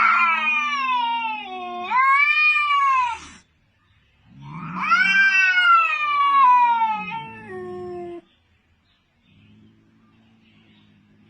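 A domestic cat yowling: two long, drawn-out wails that fall in pitch, the second starting about four seconds in, followed by a faint low rumble near the end.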